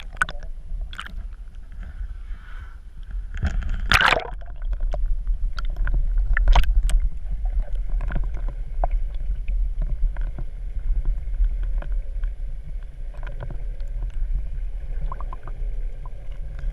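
Water splashing and gurgling around a sailboat at sea over a steady low rumble, with scattered short splashes and one louder rushing splash about four seconds in.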